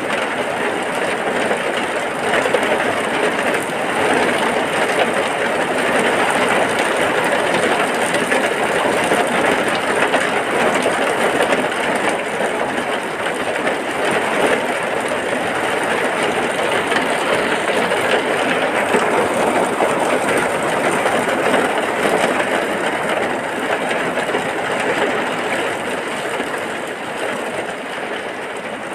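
Heavy rain falling steadily, a dense even hiss that eases slightly near the end.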